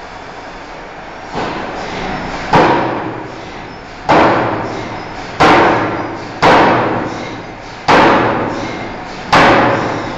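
Forging hammer striking a steel bar in a series of heavy blows, one lighter then six hard ones about a second or so apart, each ringing away over a second, over the steady noise of the forge.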